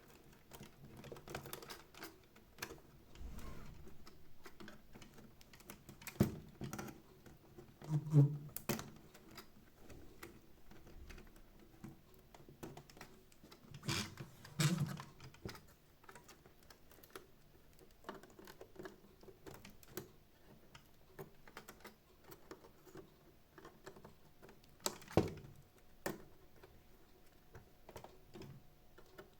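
Irregular light clicks and taps of hand work on small plastic parts and screws of a robot vacuum being taken apart, with a few louder knocks about 6, 8, 14 and 25 seconds in.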